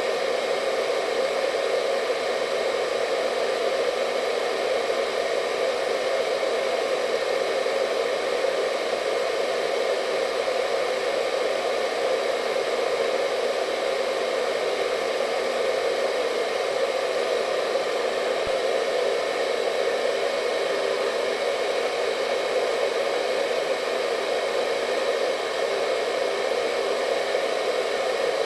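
Hair dryer running steadily: an even airy hum, strongest in the mid-low range, with faint steady whine tones above it.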